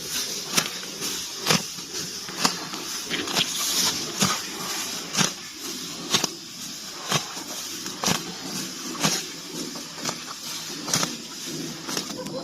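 Water buffalo grazing: a crisp tearing of grass about once a second as it crops mouthfuls, with softer munching between the pulls.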